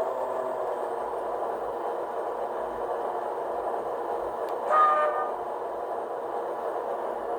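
A model locomotive's DCC sound decoder plays steady running sounds through its small speaker. About two-thirds of the way through it gives one short toot.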